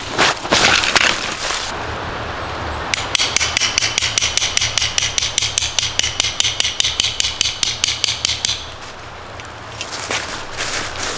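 An even, rapid series of sharp strikes, about five a second, lasting several seconds, over a steady low hum. Before it come a few irregular knocks.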